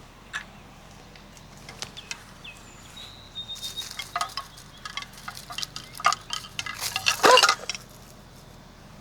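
Light clinking and clattering of small hard objects being handled, a few scattered clicks at first, then a busy run of clinks about three to eight seconds in, loudest just past seven seconds.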